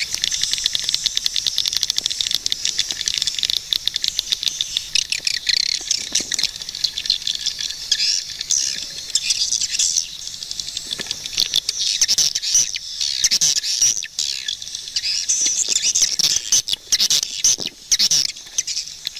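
Swiftlets calling: a dense, continuous high-pitched twittering of rapid chirps and clicks, rising and falling in loudness.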